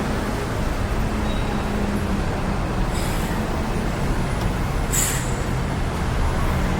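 Road traffic with engines running steadily, and a short sharp hiss about five seconds in, like a bus's air brake.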